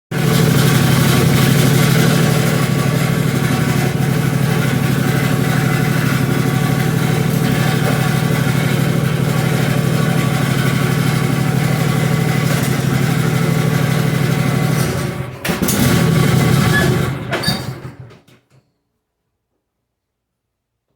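Craftsman Z6800 zero-turn mower's engine running steadily for about fifteen seconds, faltering briefly, picking up again, then dying away and stopping. It is stalling soon after starting, which the mechanic traces to the bypassed seat safety switch wires being tied together.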